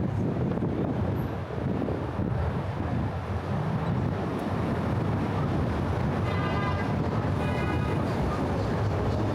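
Steady rumble of car traffic on the Brooklyn Bridge roadway, with some wind on the microphone. Two brief high-pitched sounds come through about six and seven and a half seconds in.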